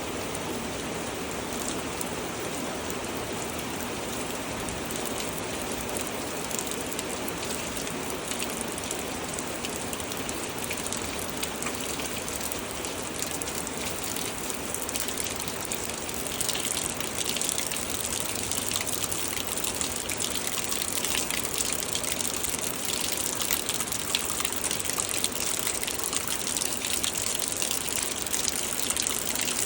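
Heavy rain pouring down as a steady hiss of drops and splashing water, growing heavier about halfway through.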